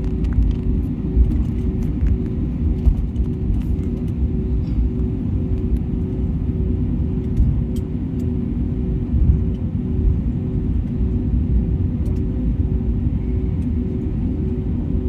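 Airbus A320neo airliner taxiing: a steady low rumble of engines and rolling wheels, with a hum that wavers about twice a second.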